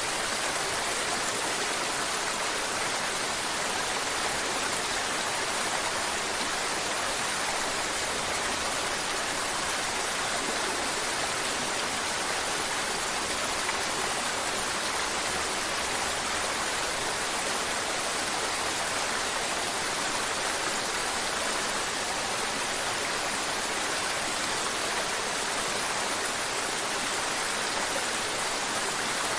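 Mountain river water babbling over stones, a steady, even rush of water that does not change.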